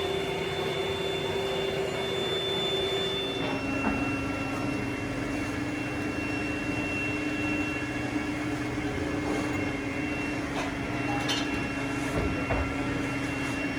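Factory machinery running with a steady hum that steps down in pitch about three and a half seconds in, with a few light clicks near the end.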